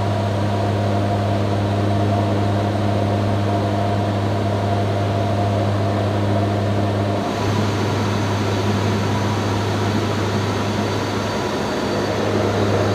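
AH-64 Apache helicopter running: a steady, loud drone of turbine and rotor with a low hum. The pitch mix changes abruptly about seven seconds in.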